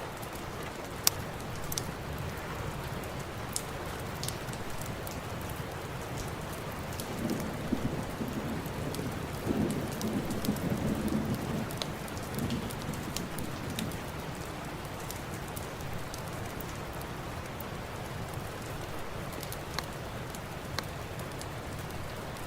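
Steady rain falling, with scattered sharp clicks and pops, and a low rumble of thunder that swells about seven seconds in and fades by about fourteen.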